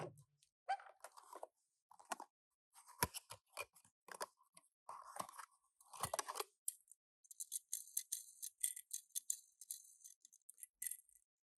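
Small diecast toy cars and their packaging being handled: irregular clicks, taps and short rustles. From about seven seconds in comes a run of rapid, light clinking and rattling.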